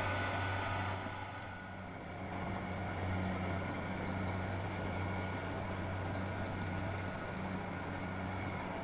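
Kubota DC-70 Plus rice combine harvester running steadily, its diesel engine humming under the whirr of the machinery, briefly dropping in level about a second and a half in.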